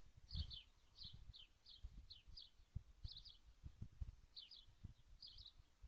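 Faint bird chirping: short falling notes in quick pairs and triplets, repeated every half second or so with a pause in the middle, over low knocks and rumble.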